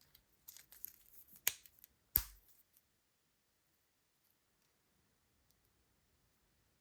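Hands handling toy packaging: about two seconds of crisp rustling and snipping clicks, with a sharp click and then a louder knock, before it goes quiet.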